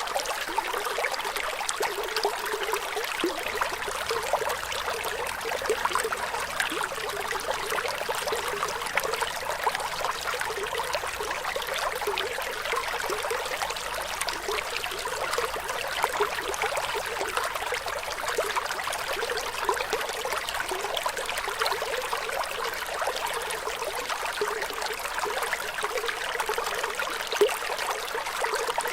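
Running water, a steady flowing stream with a continuous splashing trickle.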